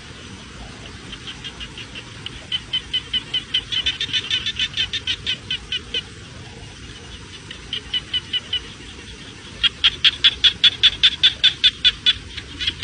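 A bird calling in fast runs of repeated short, high notes, about five a second: one long run, a brief one, then another starting near the end, over faint outdoor background noise.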